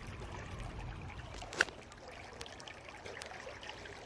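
Shallow creek water trickling in a steady wash, with one sharp click about a second and a half in.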